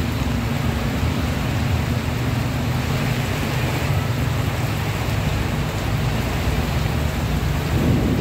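Heavy rain pouring down on a flooded street: a steady loud hiss with a deep rumble underneath.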